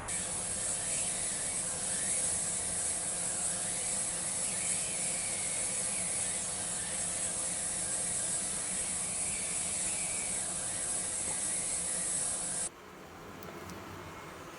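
A steady, high-pitched hiss with a faint low hum beneath it, cutting off abruptly near the end.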